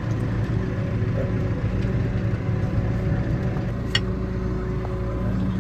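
Engine of the farm vehicle being driven, running steadily with a low hum, and a single sharp click about four seconds in.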